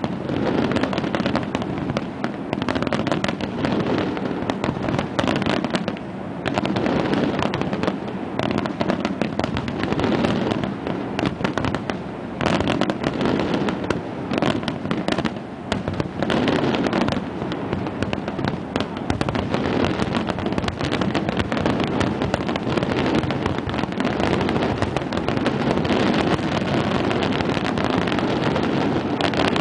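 Aerial firework shells bursting in a dense, near-continuous barrage, with bangs following one another too closely to count.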